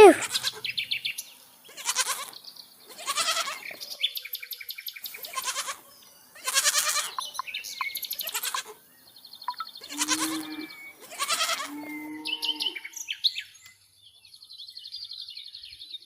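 Sheep bleating again and again, one call every second or two, some high and some lower-pitched. Birds chirp faintly in the gaps between the bleats.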